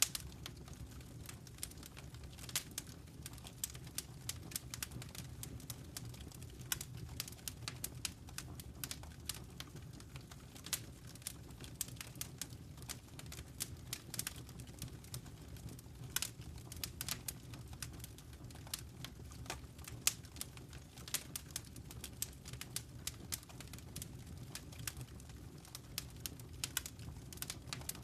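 Wood fire in a fireplace crackling: irregular sharp pops and snaps, many each second, over a low steady rumble.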